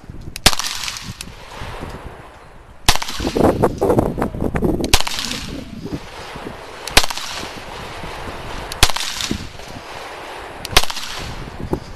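Single 9mm pistol shots from a CZ Shadow 2, about seven sharp cracks spaced roughly two seconds apart, with a stretch of scuffing noise between the second and third shots.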